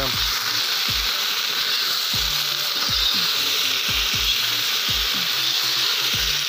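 Potato sticks frying in hot fat in a kazan: a steady, loud sizzle as they are turned over and stirred with a spatula. A low thump sounds about once a second underneath.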